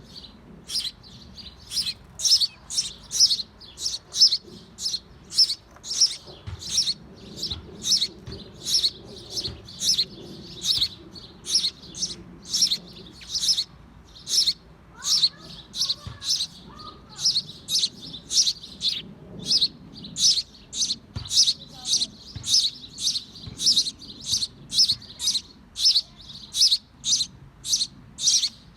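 Small bird chirping in a steady series, about two short high chirps a second.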